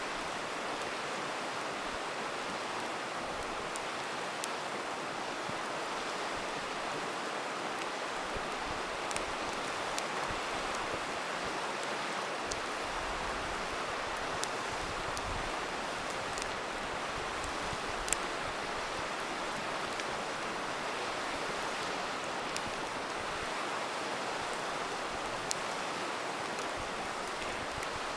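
Steady rush of a flowing river, with the scattered sharp pops and crackles of a wood campfire over it.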